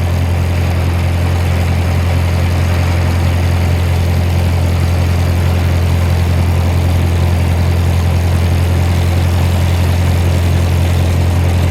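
Ford 620 tractor's four-cylinder engine running steadily, driving the hydraulic pump that slowly raises the Sherman forklift's mast.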